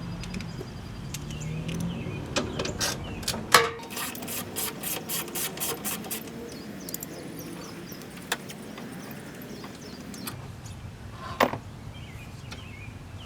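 Hand tools working on bolts: a ratchet wrench on 13 mm bolts, with scattered clicks and knocks and a run of even ratchet clicks, about four a second, in the middle. A louder single knock comes near the end.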